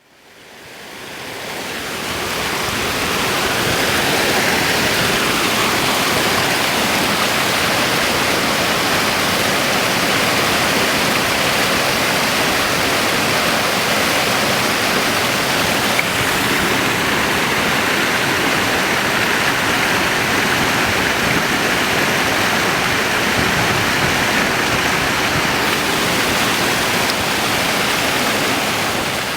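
Waterfall: a steady, dense rush of falling water. It fades in from silence over the first few seconds and begins to fade out near the end.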